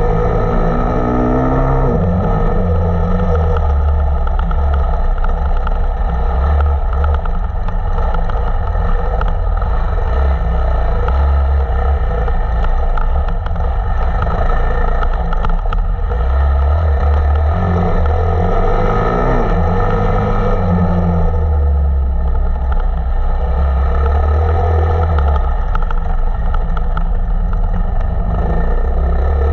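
Off-road motorcycle engine running hard, its revs rising and falling as it accelerates and changes gear, with a sharp climb in revs shortly after the start and again about two-thirds of the way through.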